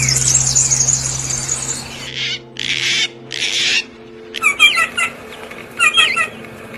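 Songbirds singing: a fast, high warbling song for the first couple of seconds, then three short harsh hissing bursts, then two brief clusters of quick chirps, over a steady low hum.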